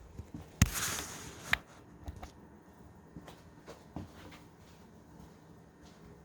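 A sharp knock, about a second of rustling, a second knock, then a few faint taps and ticks.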